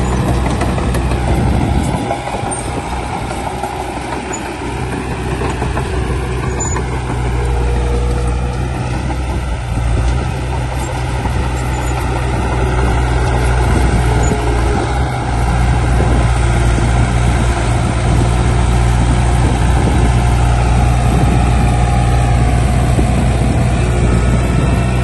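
Heavy-machinery diesel engine running with a steady low drone. It eases off a few seconds in, then picks up and runs louder and steadier over the last third.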